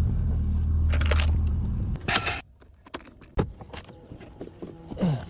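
Scania truck engine running with a steady low rumble for about two seconds. It then cuts off abruptly, followed by a few sharp clicks and knocks and a short falling whine near the end.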